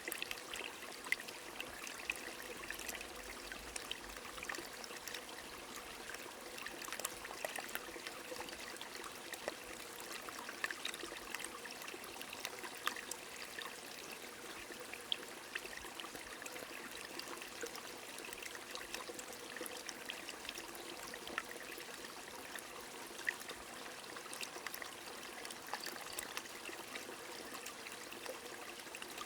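Small stream trickling steadily, with scattered sharp drips of rain ticking over it.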